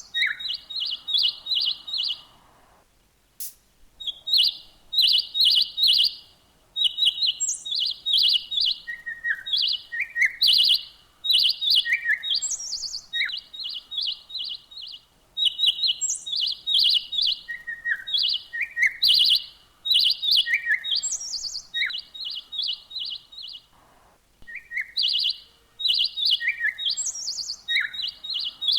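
Small birds chirping in quick runs of short high notes, with single falling notes mixed in, pausing briefly twice.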